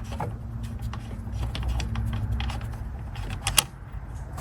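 Metal tool clicks and clinks from a wrench working loose a fitting in a truck's engine bay, with a sharp double click about three and a half seconds in, over a low steady hum.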